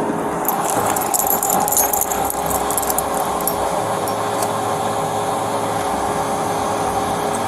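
Steady hum of an idling vehicle engine. In the first couple of seconds there is a spell of light rattling and jingling, like keys or gear on an officer's belt.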